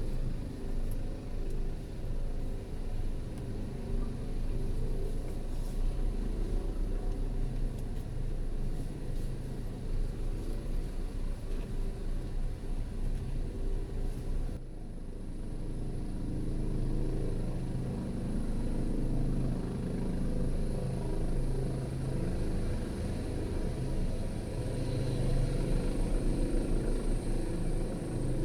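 Helicopter hovering: a steady low rumble of rotor and engine with a fast, even beat, briefly dipping about halfway through.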